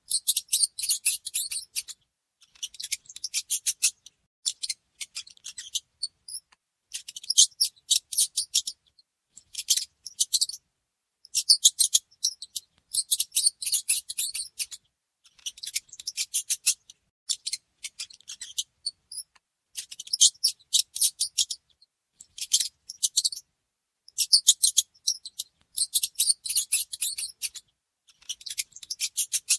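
Mouse squeaking: quick trains of high-pitched squeaks in bursts of a second or two, with short pauses between them, repeating over and over.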